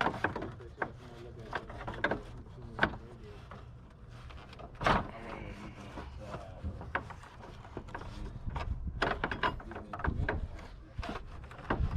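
Irregular clicks and knocks of hand tools and metal and plastic parts being handled, with a sharper knock about three seconds in and another about five seconds in.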